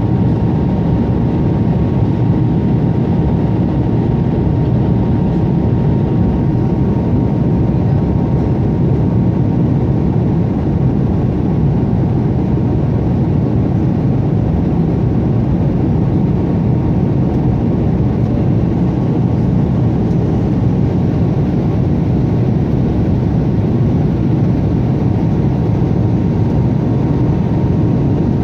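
Steady roar of an airliner's engines and airflow heard inside the passenger cabin during the landing approach, with a faint constant whine above the rumble.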